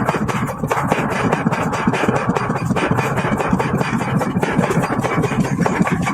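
Forging machinery running steadily, a continuous machine drone with a rapid, dense clatter throughout.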